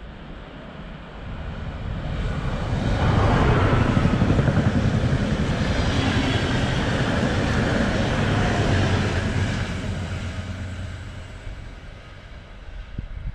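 Passenger train passing through a station at speed: its rumble and rushing noise build about two seconds in, stay loud for several seconds, then fade away.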